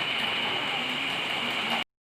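Electric hand mixer running steadily with a constant high whine, beating brownie batter until it rises; the sound cuts out abruptly just before the end.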